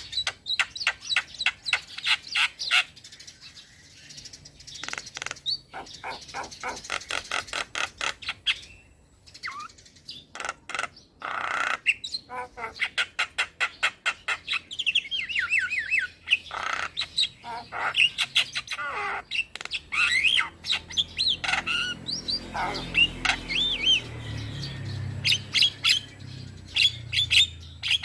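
Young male Javan myna singing and chattering: runs of rapid, sharp clicking notes at about four or five a second, mixed with harsh chatter and short whistled notes that rise and fall.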